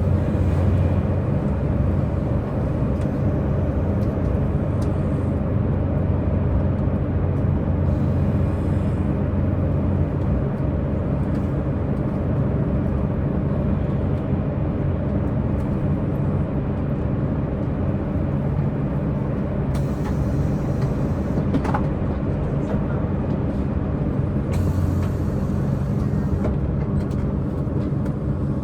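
Diesel multiple unit express train under way, its underfloor diesel engines running with a steady low hum over wheel-and-rail noise. The engine note is a little stronger in the first third and again briefly later, and one sharp click comes about three quarters of the way through.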